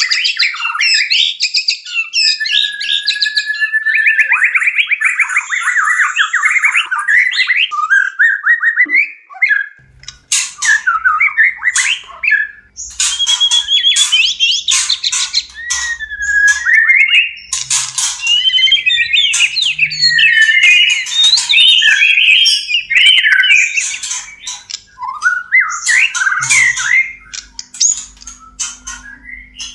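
White-rumped shamas in breeding condition giving courtship song: a rapid, varied run of whistles, trills and harsh chattering notes. About a third of the way in it cuts to another recording, which carries a faint low hum underneath.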